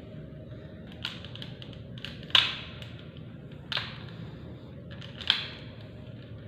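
Swiftlets at their nest giving short, sharp clicks and chirps, a few scattered and irregular, over a steady background hum.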